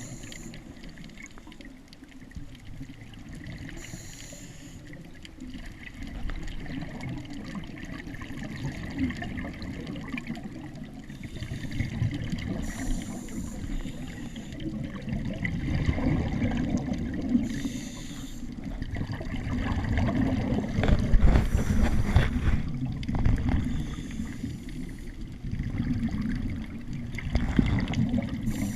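Underwater scuba breathing: a diver's regulator hisses briefly on each inhalation every few seconds, and exhaled bubbles gurgle and rumble between breaths.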